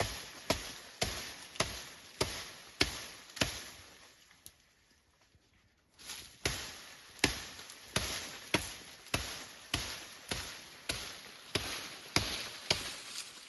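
Repeated sharp chopping strikes, about one and a half a second. They break off for about two seconds midway and then resume at the same pace.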